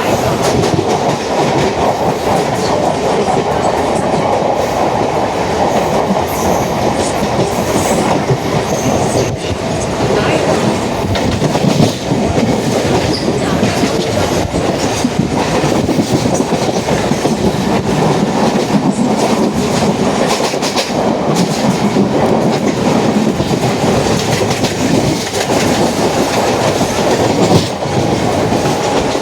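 Mumbai suburban local train, an electric multiple unit, running along the track, heard from inside the coach. A steady loud rumble with the wheels clacking over the rail joints.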